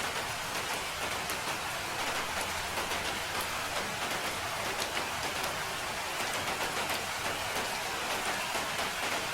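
Steady rain falling, a continuous even hiss with scattered individual drops ticking through it.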